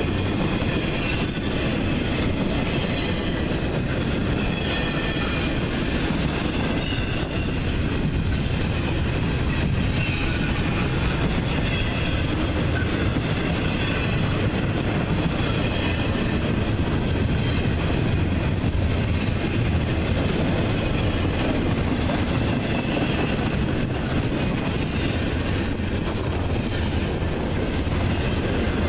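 Train cars rolling past on the rails: a steady rumble of wheels on track, with a faint wavering squeal of wheels against rail.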